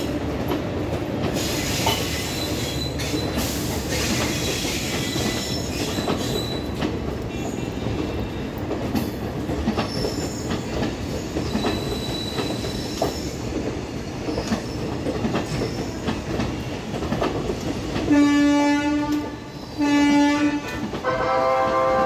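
Passenger train coaches rolling slowly through a station yard, wheels rumbling and clacking with faint squeals on the rails. Near the end a train horn sounds two long blasts.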